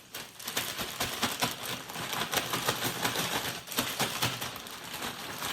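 A plastic Ziploc bag holding flour and seasonings being shaken hard, its plastic crinkling in quick, dense strokes throughout.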